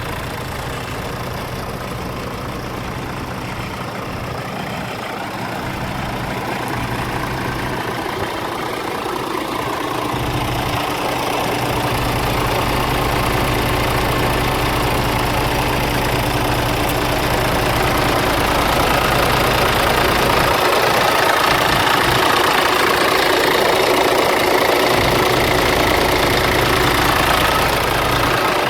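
Scania R410 tractor unit's 13-litre straight-six diesel engine idling steadily. It grows louder through the first half and then holds.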